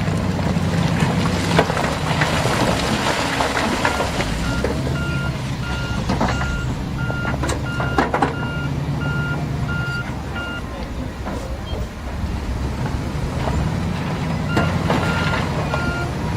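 Heavy construction machine's reverse alarm beeping, roughly two beeps a second, over a steadily running diesel engine. The beeping stops for a few seconds in the middle, then starts again near the end. A few sharp knocks of rock or metal come through, the loudest about eight seconds in.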